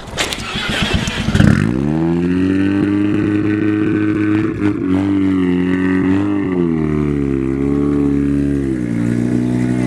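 Honda Accord engine starting about a second and a half in, the revs flaring and then settling into a loud, steady idle with a couple of small rises in revs. It runs through a freshly fabricated single-pipe exhaust that still leaks at unwelded joints.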